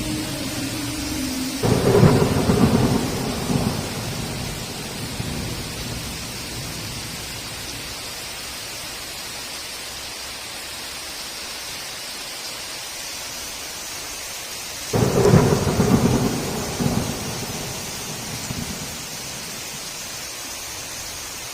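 Heavy rain falling steadily, with two sudden thunderclaps, one about two seconds in and one about fifteen seconds in, each cracking and then rumbling away over a few seconds.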